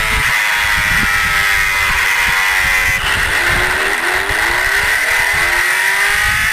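Motorcycle engine running while riding, its pitch rising about three seconds in as it speeds up, with wind rumbling on the microphone.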